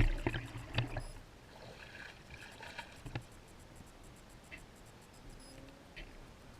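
An RC speedboat's electric motor dying away at the start as the throttle is released, then faint water lapping around the drifting hull with a few soft knocks.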